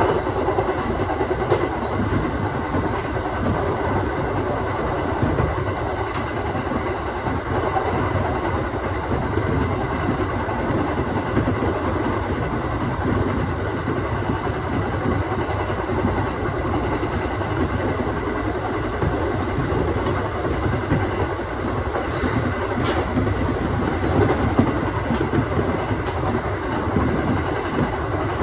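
Aoimori Railway 701-series electric train running along the line, heard from inside the car: a steady rumble of wheels on rail with a few faint clicks.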